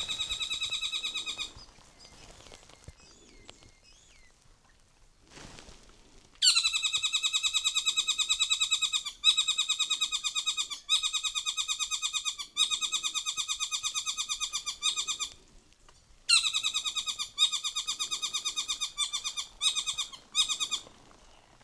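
North Island saddleback (tieke) giving loud, rapid chattering calls in several long runs, each starting with a short downward slur. Between about 1.5 and 6.5 seconds in there is a quiet gap, and there is another brief pause near 16 seconds.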